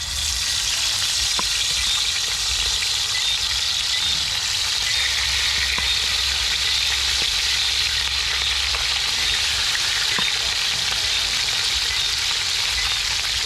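Lionfish frying in very hot oil: a loud, steady sizzle that starts suddenly as the fish goes in, with faint crackles through it.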